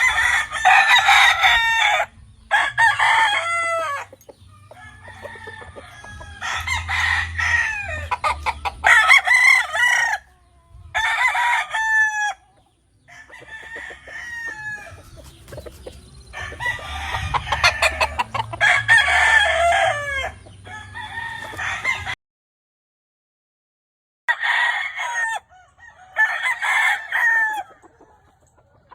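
Several gamefowl roosters crowing one after another, their crows often overlapping, with clucking between them. The sound drops out for about two seconds near the end.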